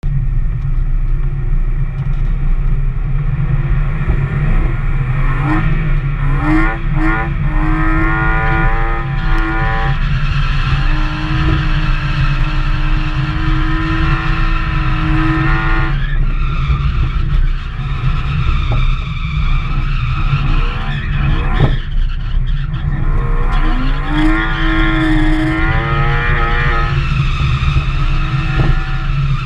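BMW E36 drift car's engine revving hard, heard from inside the cabin over a heavy low rumble. Its pitch climbs, holds high, then falls away twice as the car is driven through drifts, with tyre skidding beneath it.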